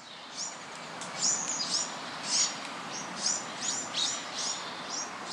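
Small birds chirping: many short calls, each sweeping quickly down in pitch, two or three a second and sometimes overlapping, over a steady faint hiss of outdoor background noise.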